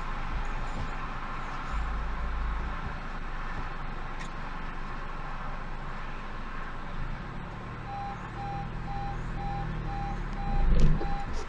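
Vehicle driving noise, joined about two-thirds of the way in by a regular electronic warning beep, two to three a second. A loud short thump near the end.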